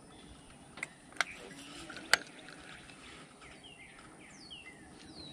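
A few sharp clicks in the first two seconds, the third the loudest, then a bird calling in a run of quick falling chirps from about three and a half seconds in, over quiet outdoor background.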